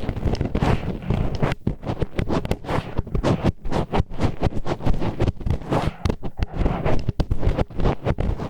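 Wooden disposable chopsticks scraping and rubbing in an ear close against the microphone, a grinding sound. A dense, uneven run of short gritty strokes, with heavy low rumble from the contact.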